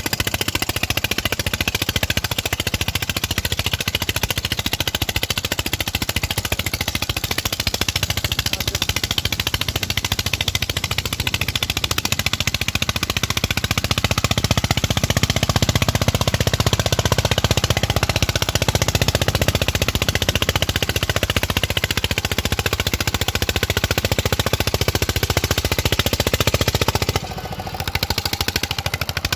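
Tractor engine working hard under load while pulling a harrow, its exhaust a rapid, loud, steady beat. The beat grows louder about halfway through and drops briefly near the end.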